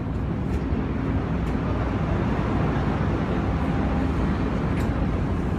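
Ferry under way: a steady low rumble of engine and hull noise with a faint constant hum.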